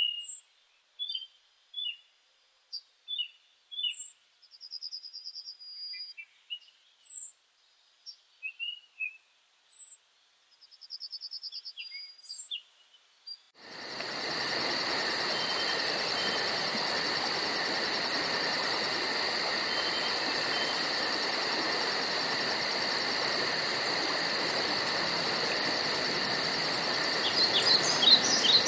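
Woodland birds chirping and whistling in short separate calls with quiet gaps between. About halfway through, a dense, steady insect chorus with a constant hiss cuts in abruptly, and bird chirps return over it near the end.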